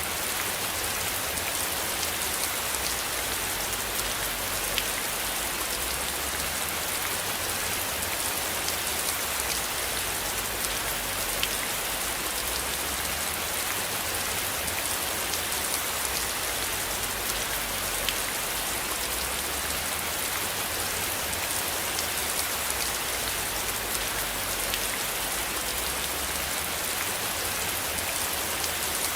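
Steady rain falling, an even, dense hiss with scattered sharp ticks of individual drops striking a surface.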